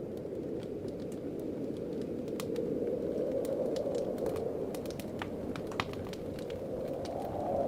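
Wood fire crackling with scattered sharp pops over a steady howling wind, whose pitch rises slightly near the end.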